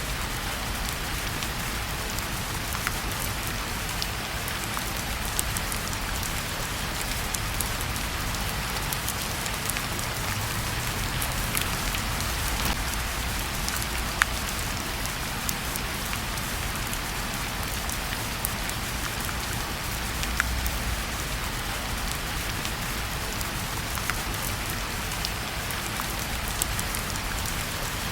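Steady rain, with scattered sharp ticks and pops from a crackling fireplace mixed in.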